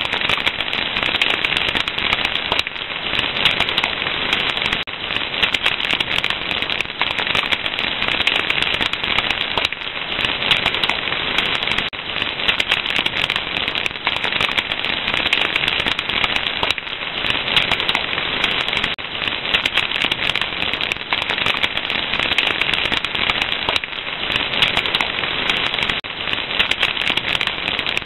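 Fire crackling steadily: a dense, continuous run of small pops and snaps.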